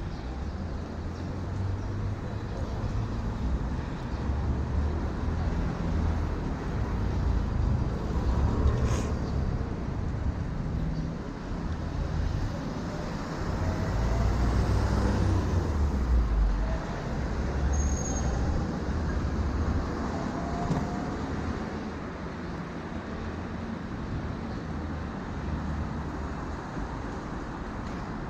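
City road traffic heard from a moving bicycle: a continuous wash of passing vehicles with a heavy, uneven low rumble. There is a sharp tick about nine seconds in and a short high beep about eighteen seconds in.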